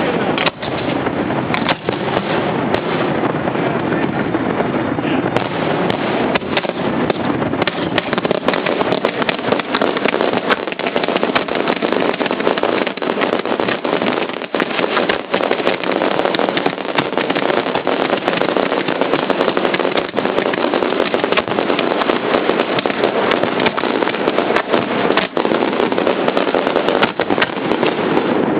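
Fireworks display in full barrage: shells launching and bursting in rapid succession, with many overlapping bangs and crackles and no let-up.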